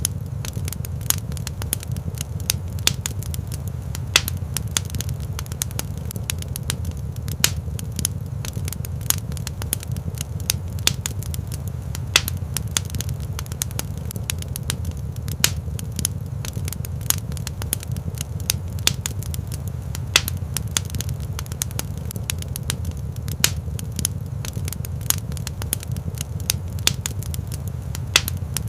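Wood fire in a rock fireplace crackling, with irregular sharp pops and snaps over a steady low rumble of the flames.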